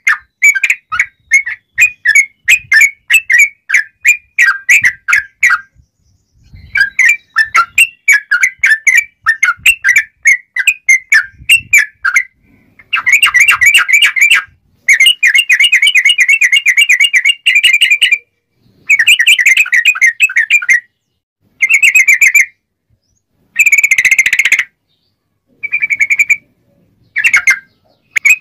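Sooty-headed bulbul (trucuk) singing its sharp, clear 'ngobra' song. It opens with a quick run of separate whistled notes. After a short break, the song turns into dense, rapid trilled bursts with brief gaps between them.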